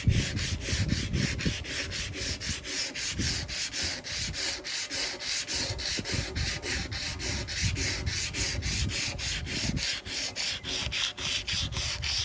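180-grit sandpaper rubbed by hand over the painted steel lawn mower deck, in quick even back-and-forth strokes of about four a second, knocking back high spots before priming.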